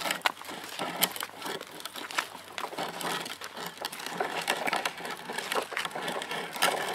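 Dense, irregular crackling and clicking of a child's ride-on toy bike's wheels rolling over gritty pavement as it is turned around.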